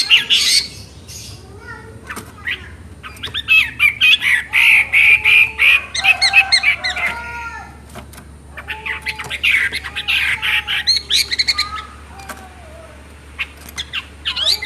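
Chinese hwamei singing loud, rapid, varied song phrases in two long bouts with short pauses between, mixed with a few lower flat whistled notes and some sharp clicks near the end.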